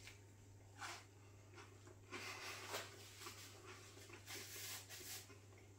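Faint, scratchy chewing and crunching of a crispy rice-coated chicken breast burger, in a few short spells, over a low steady hum.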